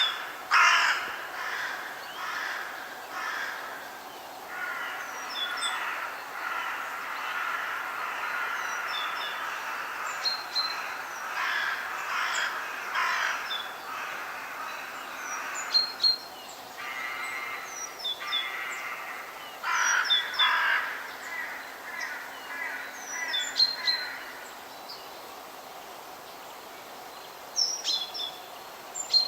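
Forest birds calling: a series of harsh, repeated calls, some in long runs, with small birds chirping high above them. The calls thin out for a few seconds near the end.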